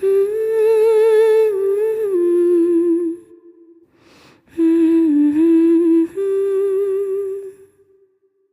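Wordless humming of a song melody: two phrases of long held notes with a light vibrato, the first stepping down in pitch about two seconds in, the second ending in a held note that fades away near the end.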